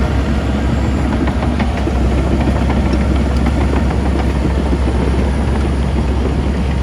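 Heavy diesel earthmoving machinery running steadily, a deep drone with a busy metallic clanking over it.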